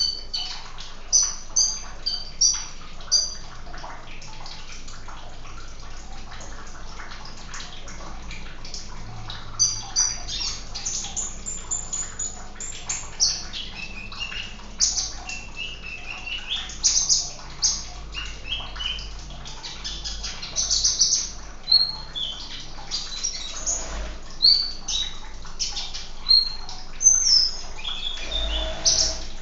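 Sunbird chirping in short, high, repeated notes, quick series at first and more varied calls later, over a steady hiss of running water.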